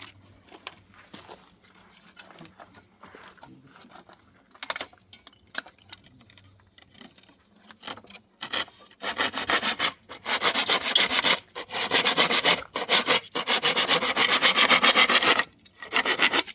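Light scattered knocks of wood being handled, then a hand saw cutting through timber with fast, steady strokes. The sawing starts about halfway in and runs in a few long spells with brief pauses.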